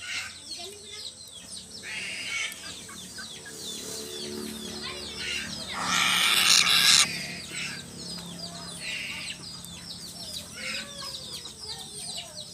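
Chickens clucking, with many short high chirps all the way through. A loud rustling burst comes about six seconds in and lasts about a second.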